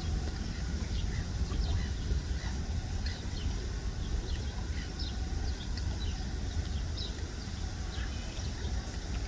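Wind rumbling on the phone's microphone, with many short, high bird chirps scattered throughout.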